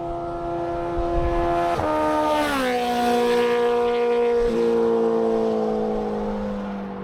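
Motorcycle engine running: its pitch drops quite sharply about two seconds in, then sinks slowly while the sound stays loud.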